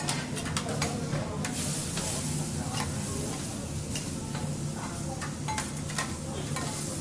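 Food sizzling on a steel teppanyaki griddle, with frequent sharp clicks and scrapes of metal spatulas on the plate. A steady low hum runs underneath.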